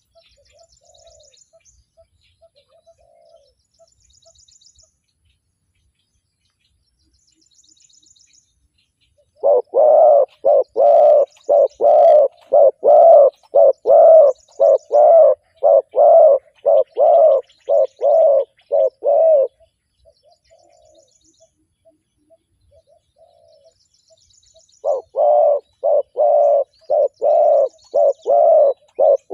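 Spotted dove cooing loudly and close by in a long, even series of notes, about two a second, twice: once from about ten seconds in and again near the end. Between the series a fainter, more distant dove coos, and small birds chirp faintly high above.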